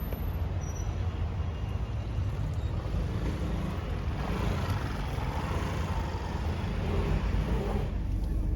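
Steady low rumble of road traffic and vehicle engines, with no sharp events.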